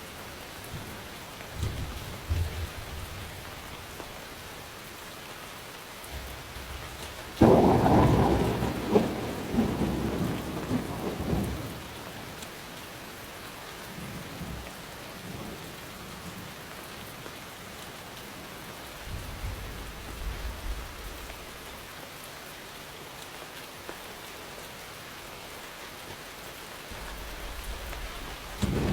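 Steady rain with thunder. A sudden loud thunderclap about a quarter of the way in rumbles away over several seconds, fainter low rumbles come and go, and another clap breaks right at the end.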